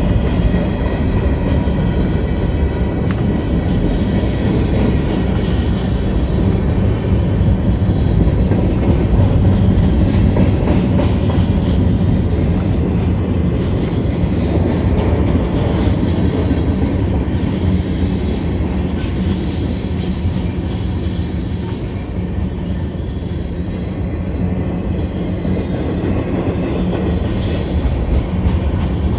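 A CSX mixed manifest freight train of tank cars, hoppers and boxcars rolling past at a grade crossing: a steady loud rumble of steel wheels on rail, with repeated clicks as the wheels cross the rail joints.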